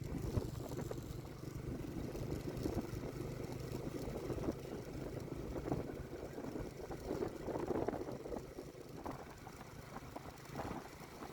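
Motorcycle engine running steadily while riding, with rough rushing noise over the top.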